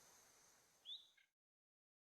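Faint forest ambience fading out, with one short bird call about a second in, then the sound cuts off to complete silence.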